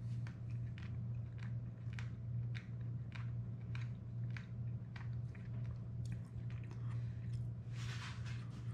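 A man chewing a mouthful of firm, pan-fried burbot close to the microphone, with wet mouth clicks about three times a second, over a steady low hum.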